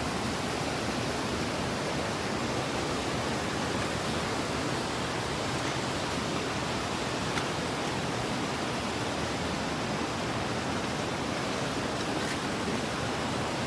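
Steady, even rush of water in heavy rain, without a break or change.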